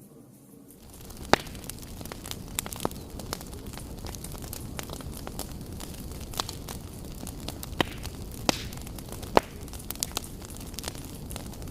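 Wood fire in a fireplace crackling, with sharp pops over a steady low rumble. It is quieter for about the first second, then comes up to full level.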